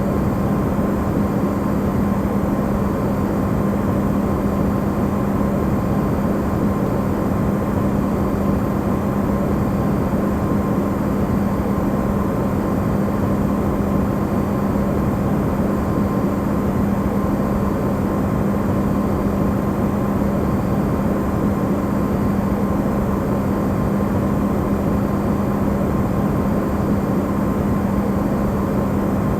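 Amplified running sound of an Electrolux refrigerator: a steady, unchanging hum with a low drone and a rushing noise.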